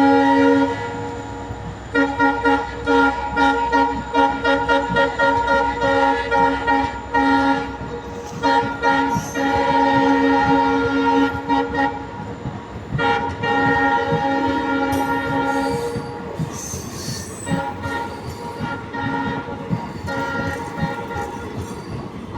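Indian Railways locomotive horn sounding a chord in several long blasts while a train passes close by, over the steady clatter of its wheels on the rail joints.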